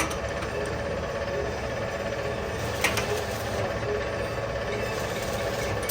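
Heavy boring machine cutting a steel pipe: a steady mechanical drone with a few ringing tones, and a sharp metallic click about three seconds in.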